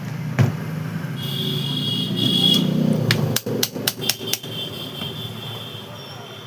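Metal work on a mixer grinder motor: a single knock, then a whirring that swells and slowly fades, broken around three to four seconds in by a quick run of about six sharp metallic taps.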